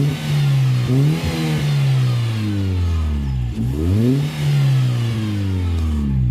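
Volkswagen Gol engine revved and let fall back twice, with a hiss that rises and falls with the revs. The hiss comes only when the engine is hot. Mechanics have ruled out the timing-belt tensioner and the water pump, and some suspect the alternator.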